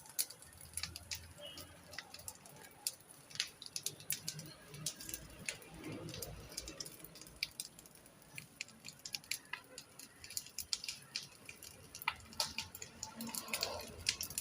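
Fire burning through dry material, crackling with irregular sharp snaps and pops.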